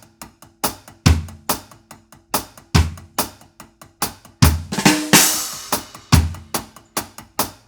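Drum kit playing a shuffled one drop reggae groove: bass drum and snare hit together once per bar on beat three, with lighter sixteenth-note hi-hat strokes between that accent the third semiquaver of each beat. A cymbal washes briefly about five seconds in.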